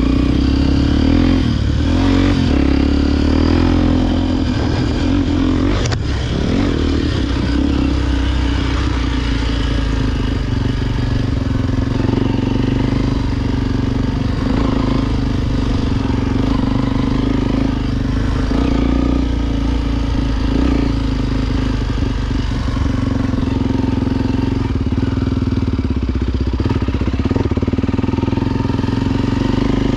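Honda XR Tornado enduro motorcycle's single-cylinder four-stroke engine running steadily while riding off-road, with small changes in revs and a brief rise in revs about six seconds in.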